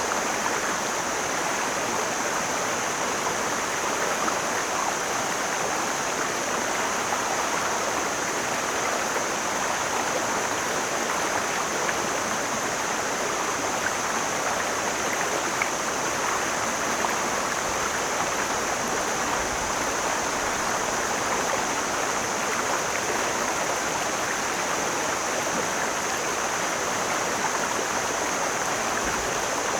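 Mountain stream rushing and splashing over rocks in a steady, unbroken flow, with a steady high-pitched hiss running alongside the water.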